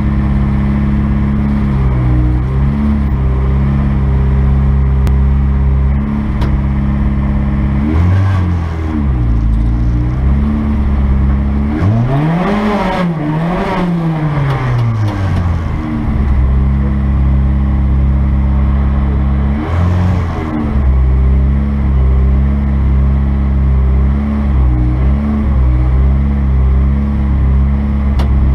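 Honda B16 VTEC four-cylinder engine in a Mini race car idling, heard from inside the cabin, with short throttle blips every few seconds. In the middle it revs harder twice in quick succession, pitch rising and falling each time.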